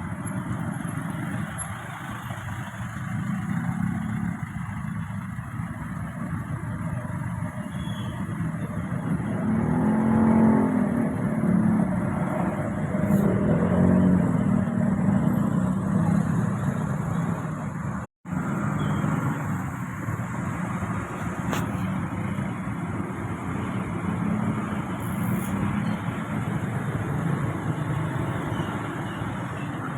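A road vehicle's engine running while under way, with steady road and wind noise; the engine note swells and shifts in pitch for several seconds about a third of the way in. The sound cuts out for an instant a little past the middle.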